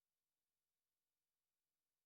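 Silence: the soundtrack has ended, with no sound at all.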